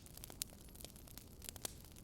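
Wood fire crackling in a fireplace, with irregular sharp pops and snaps over a low, steady background rumble.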